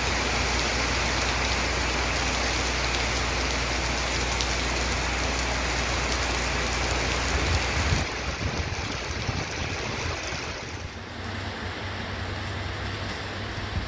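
Rain falling steadily. About eight seconds in, the deep rumble underneath drops away and the rain sounds thinner, growing a little quieter again near eleven seconds.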